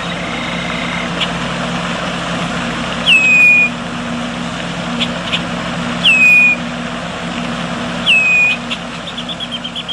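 A bird calling three times, each call a sharp downward slide that levels into a short held note, with a few brief chirps between and a quick run of short notes near the end. Underneath runs a steady hiss and a low hum.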